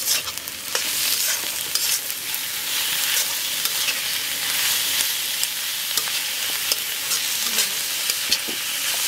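Raw minced chicken sizzling in hot oil in a black kadhai with fried onions. The sizzle jumps up at the start as the mince hits the oil, and a steel spatula stirs and scrapes it with scattered clicks against the pan.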